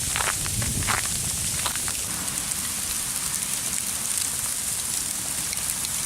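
Sleet pellets falling and striking surfaces: a steady, dense hiss of tiny ticks, with a few louder separate ticks in the first second or two.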